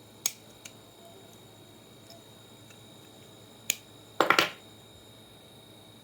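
A few sharp clicks, then a short rattle of several clicks about four seconds in: hard small objects being handled or set down.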